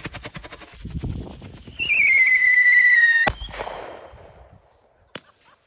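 Great Grizzly consumer strobe rockets firing. Rapid even popping from strobe stars, then a loud whistle sliding slightly down in pitch for about a second and a half that ends in a sharp bang, and one more crack near the end.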